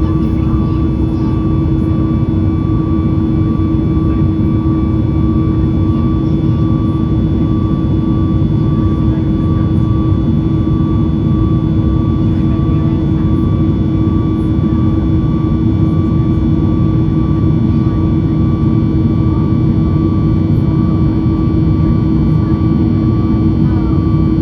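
Steady engine and airflow noise inside the cabin of a Boeing 737 MAX 8 with its CFM LEAP-1B engines running, a constant deep rush with two steady tones held through it.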